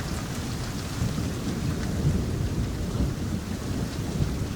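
Heavy rain falling with a low, rolling rumble of thunder underneath.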